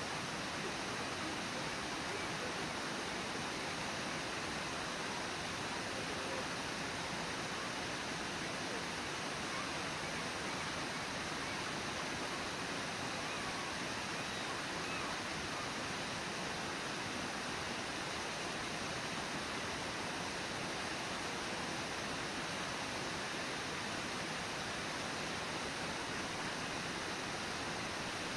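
Steady rush of Brooks Falls, water pouring over the falls in an even, unbroken roar of noise.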